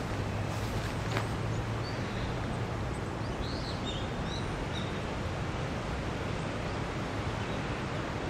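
A steady outdoor rumble, with a few short, high bird chirps about two to four seconds in.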